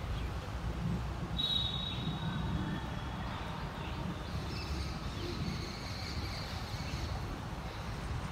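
Vande Bharat Express electric train running at a distance: a steady low rumble. About a second and a half in, a thin high tone sounds for about two seconds, and fainter high tones come through later.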